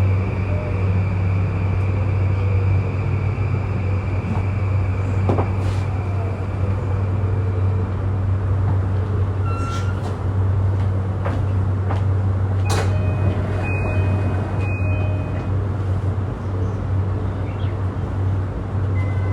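Interior running sound of an E235-1000 series electric train: a steady low rumble and hum from the motors and the wheels on the rails. In the first few seconds a motor whine glides down in pitch. Scattered clicks and short tones come through the middle.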